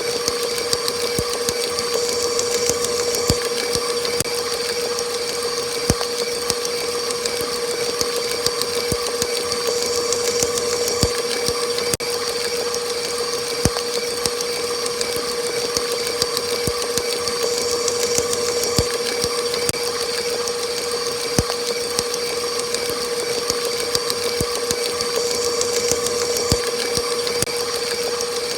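Electric mixer motor running steadily at high speed: a constant whirring hum with a hiss above it and scattered light clicks.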